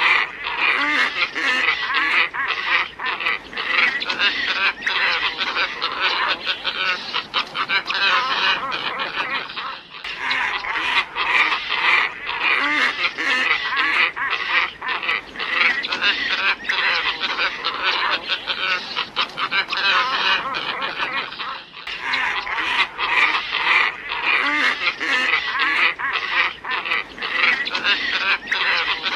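A flock of glossy ibises calling: dense, overlapping hoarse calls with no let-up. The chorus breaks off for a moment twice, where the lure recording loops.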